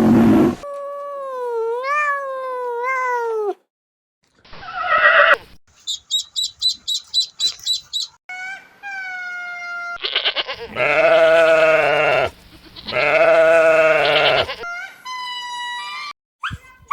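A string of separate animal calls cut one after another: gliding pitched calls, a quick run of high pulsed notes, and two long wavering bleats, goat-like, in the second half.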